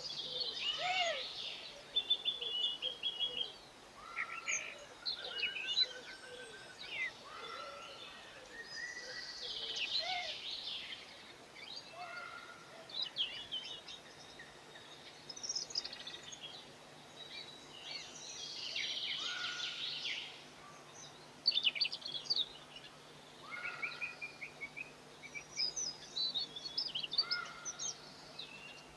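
Several small songbirds chirping and twittering, short calls and quick trills overlapping throughout, over a faint steady low hum.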